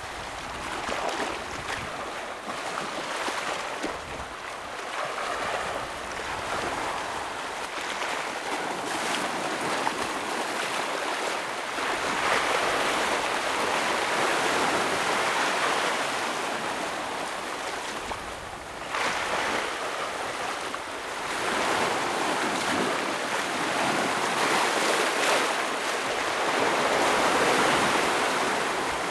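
Ocean waves washing and breaking against rocks, a continuous rushing wash that swells louder in surges, with a short lull about two-thirds of the way through.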